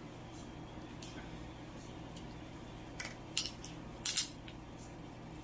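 Crab shells cracking and snapping as crab legs are broken open for the meat: a small crack about a second in, then several sharp cracks in quick clusters from about three to four seconds in, over a steady low hum.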